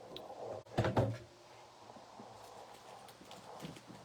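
Knocks and clatter of a plastic scoring board being set down and handled on a tabletop, loudest about a second in, followed by faint rustling and small clicks.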